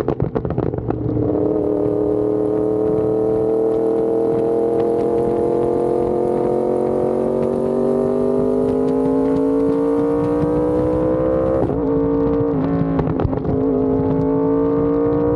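Yamaha R1M's crossplane inline-four through an SC Project exhaust, pulling in gear with the revs climbing steadily. Short crackles near the start, and a brief break about twelve seconds in as it shifts up, after which the revs climb again.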